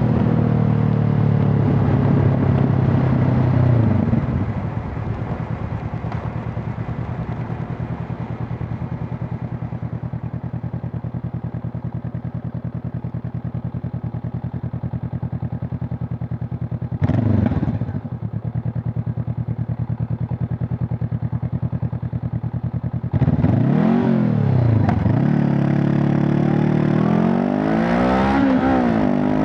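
Honda CB500 Hornet's parallel-twin engine and exhaust under way. The engine eases off over the first few seconds and then runs steadily at lower load. There is a short throttle blip about two-thirds of the way in, and near the end it revs up and drops back repeatedly, as in pulling through the gears.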